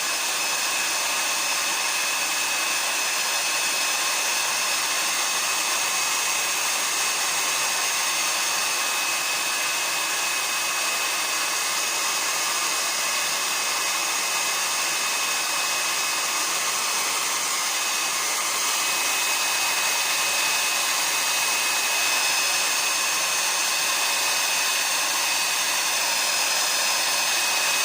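Hair dryer running steadily: a continuous rush of air with a steady high whine from the motor.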